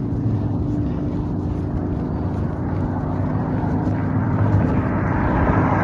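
Steady low rumble of a running vehicle with a constant low hum. A rushing hiss swells near the end.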